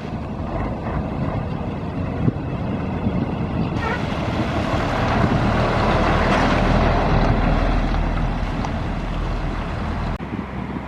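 A lorry's diesel engine driving past. It grows louder to a peak about six seconds in, then fades away.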